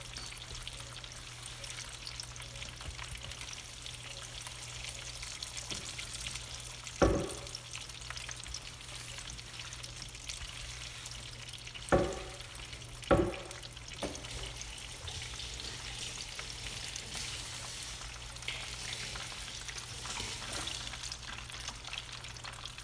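Chicken frying in hot oil, with a steady crackling sizzle. Three sharp knocks cut through it, one about seven seconds in and two more close together about five seconds later.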